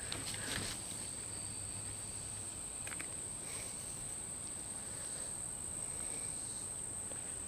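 Insects calling in one steady, unbroken high-pitched drone.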